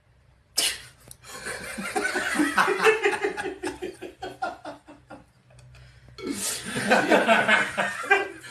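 People laughing hard in two bouts: the first starts suddenly about half a second in, and the second comes after a short pause near the end.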